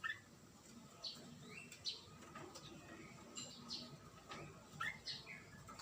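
Birds chirping: short, quick call notes every second or so, fairly faint.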